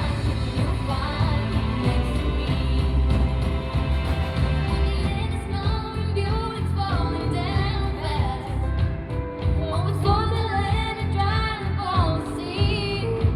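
Live amplified pop-rock band performance: a female lead vocal over the full band.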